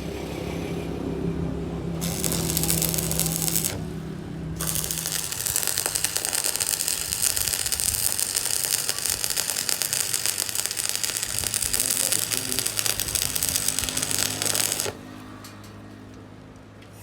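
Workshop machinery running with a loud, dense mechanical rattle. It starts about two seconds in, breaks off briefly, runs on, and cuts off suddenly near the end, leaving a low hum.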